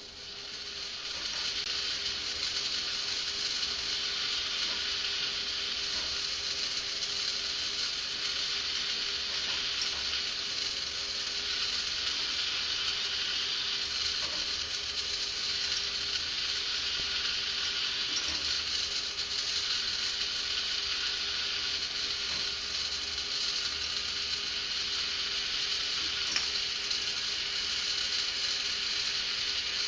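K'nex ball lift running: its motor and plastic gear train give a steady whir and rattle with a faint steady hum. It comes on suddenly and continues evenly, with a few faint clicks.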